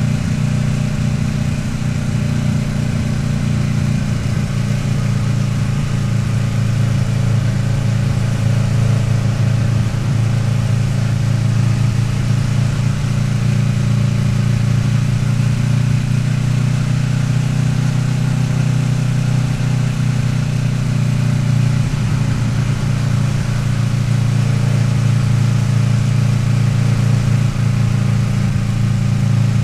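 Kawasaki Ninja 650R's parallel-twin engine running steadily while riding at a cruise, its pitch drifting only slightly.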